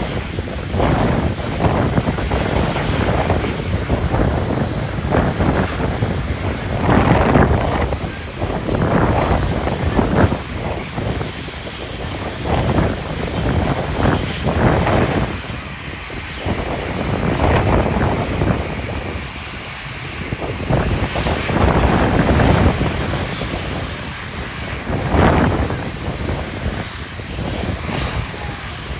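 Red Arrows BAE Hawk T1 jets with their engines running on the ground, a steady high whine, partly covered by gusty wind buffeting the microphone in uneven surges.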